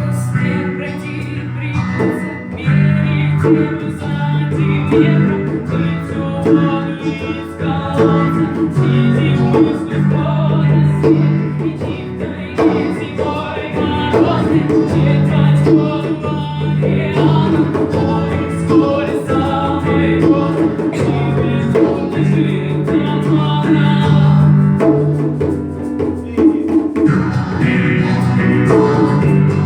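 A small band playing an instrumental passage: guitar and electric piano over hand percussion and shaker. Low held notes change every couple of seconds under a steady clicking rhythm.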